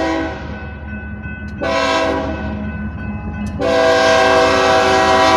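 BNSF freight locomotive's air horn sounding several notes at once in three blasts: one cutting off just after the start, a second of about a second in the middle, and a long, loud blast starting about two-thirds of the way through. The low rumble of the approaching train runs underneath.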